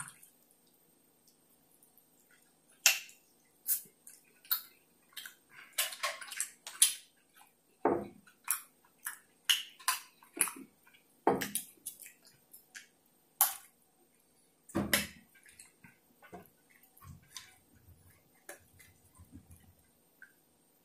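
Close-miked chewing of a mouthful of grilled steak, heard as many separate wet smacks and clicks of the mouth, busiest in the middle and thinning out near the end.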